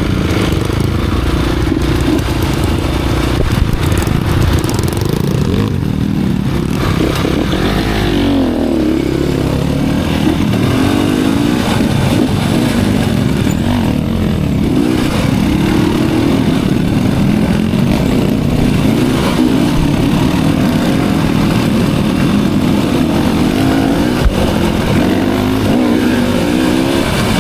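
Off-road trail motorcycle engine running under way, its pitch rising and falling over and over as the throttle opens and closes.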